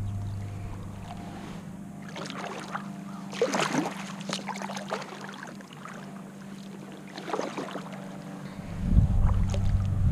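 Small splashes and knocks of water and gear around a kayak over a steady low hum, with a low wind rumble on the microphone starting near the end.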